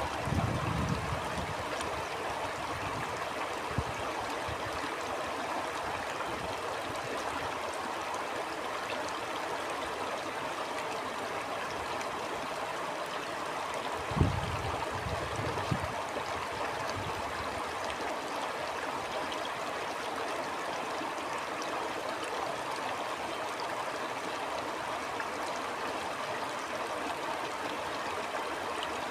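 Stream water flowing steadily, with a few brief low bumps of wind on the microphone, the loudest about halfway through.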